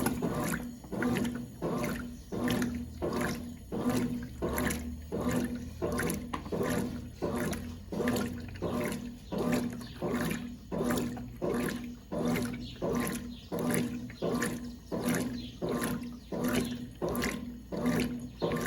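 1996 Brastemp Clean 5 kg washing machine agitating a wash load: water sloshes back and forth in a regular swish about every 0.7 seconds over the steady hum of the motor.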